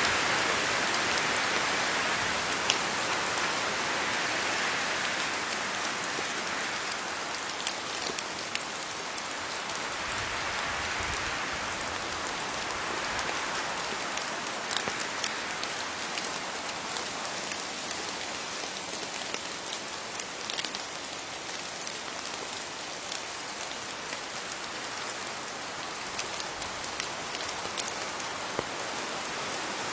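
Steady rain falling on leaves: a continuous hiss of rain with many separate drops ticking. The rain swells and eases a little in the first half, then settles a touch quieter.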